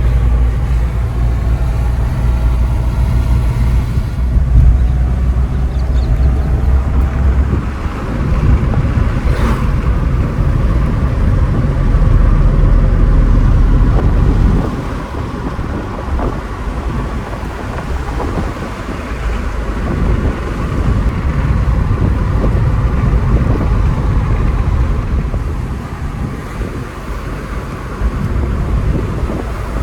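A car driving along a road: steady engine and road rumble, heavy in the low end, easing off a little about halfway through.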